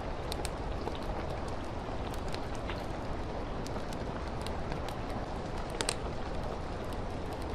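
Steady rain falling against a window, with the scattered crackles and pops of a wood fire. The loudest pop comes about six seconds in.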